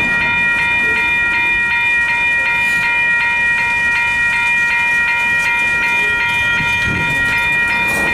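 Freight train of boxcars rolling past with a low wheel rumble and some clicks from the rails, under a loud, steady ringing of high tones that repeats evenly several times a second.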